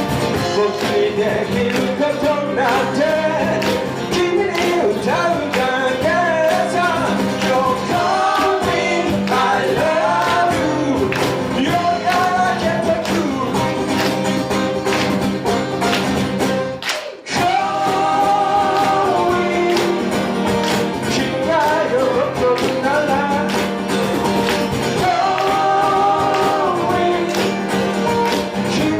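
A live band playing a rock song, with a lead singer over guitar and a steady beat. The music breaks off for a moment a little past halfway, then comes back in.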